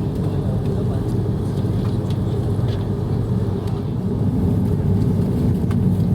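Steady low engine drone heard inside the cabin of an Airbus A330-300 airliner, growing a little louder about four seconds in.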